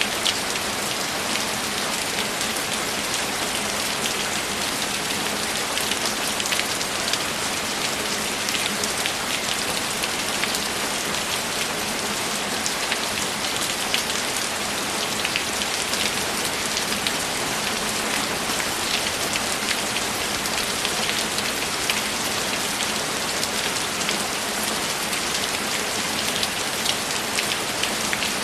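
Steady, unbroken rainfall, with many separate drop hits heard through the even hiss.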